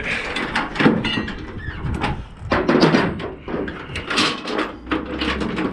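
Steel load-securement chain rattling and clanking against metal, with repeated sharp knocks as a chain and snap binder are reset on a flatbed.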